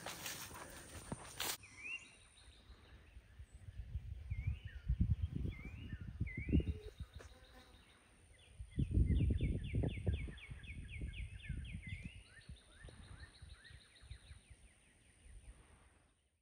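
Outdoor ambience with a songbird calling: several separate rising whistled notes, then a fast run of about a dozen short notes. Low rumbling noise comes and goes underneath, and a loud rush of noise cuts off about a second and a half in.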